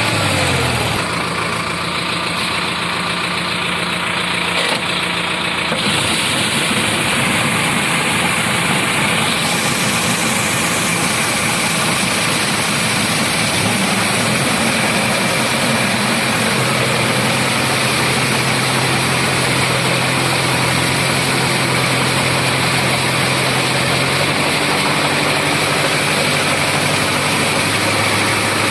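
Sonalika 750 tractor's diesel engine running hard. Its pitch drops about a second in, then its speed shifts several times as the load changes.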